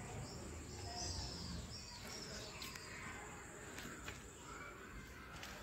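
Faint outdoor background noise with short, high bird chirps in the first half and a few light clicks.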